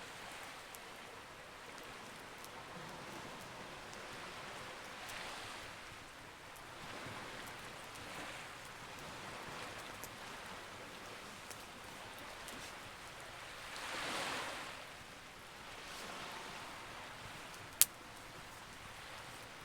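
Campfire burning with scattered small crackles and one sharp pop near the end, over a soft rushing noise that swells and fades every few seconds.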